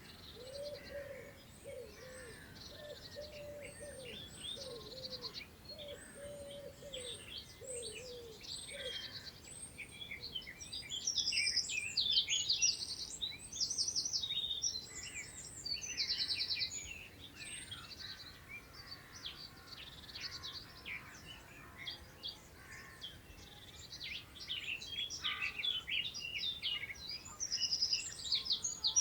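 Several birds singing and calling at once in a countryside chorus: rapid high trills, chirps and short whistled notes overlapping throughout. A low cooing phrase, typical of a dove or pigeon, repeats over and over for the first third or so.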